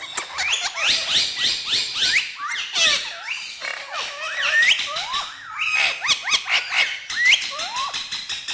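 Parrot calling: a rapid, continuous run of short rising and falling chirps and squawks.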